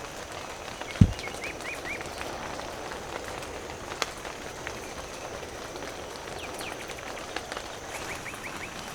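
Steady rain hiss with a bird chirping in quick runs of three or four short rising notes, once early and again near the end. A dull thump about a second in is the loudest sound, and a sharp click comes about four seconds in.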